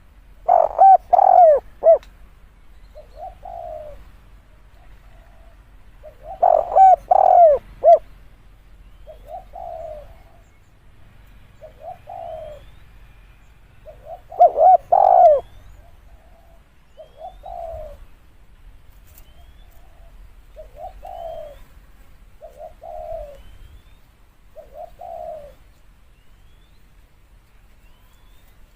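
Spotted dove cooing. Three loud phrases of several quick notes come roughly every seven seconds, with softer single coos in between.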